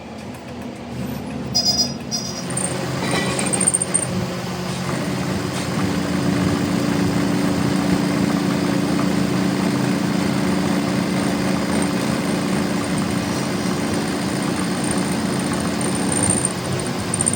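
A machine running with a steady hum that builds up over the first few seconds, after a few short clicks.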